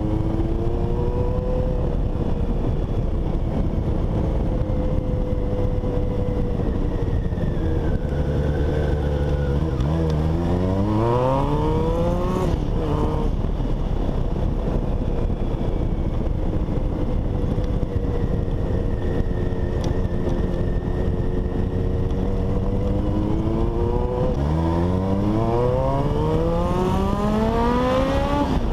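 Honda CBX 750 inline-four motorcycle engine under hard acceleration twice. Each time its pitch climbs steeply for two or three seconds, then drops abruptly as the revs are cut. In between it holds a steady pitch.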